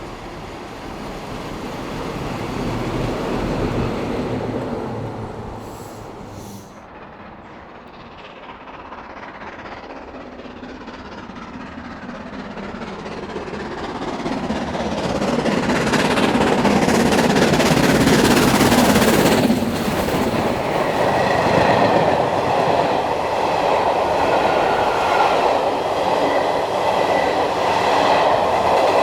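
Blue Pullman passenger train pulling in to a station: a rumble that swells, eases off, then builds to its loudest over the second half as the train passes close. A steady high whine sounds over the last several seconds.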